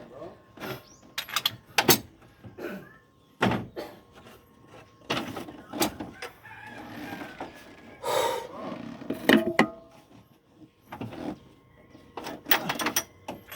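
A string of irregular sharp knocks and clanks, about a dozen, spaced unevenly.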